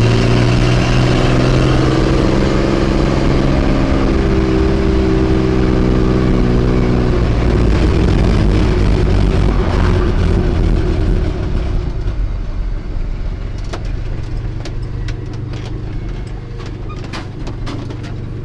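Ford F-150 pickup truck driving, its engine running with a steady hum whose pitch shifts slightly. About eleven seconds in it eases off to a lower, quieter run, with scattered light clicks and knocks near the end.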